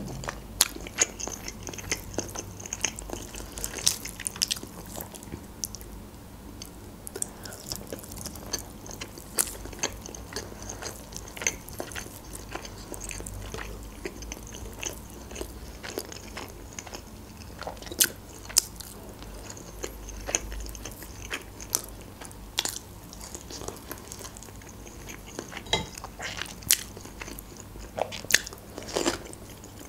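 Close-miked chewing of grilled chicken: soft mouth noises broken by many irregular sharp clicks.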